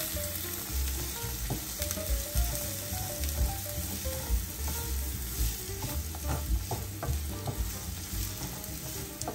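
Chopped onion and crushed garlic sizzling in cooking oil in a frying pan, stirred with a utensil that clicks and scrapes against the pan every so often.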